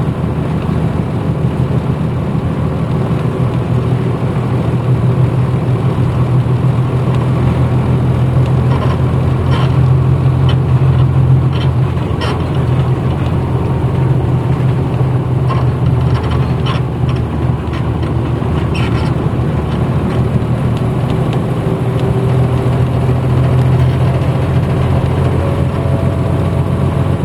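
A 1994 Hino Blue Ribbon city bus's diesel engine running under way, heard from inside the passenger cabin. The engine note swells, eases off about twelve seconds in, and swells again near the end, with short clicks and rattles in between.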